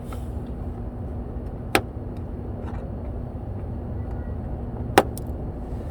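Two sharp clicks about three seconds apart from hand work with a screwdriver on a car's plastic wheel-arch rivets and mud-flap fittings, over a steady low background hum.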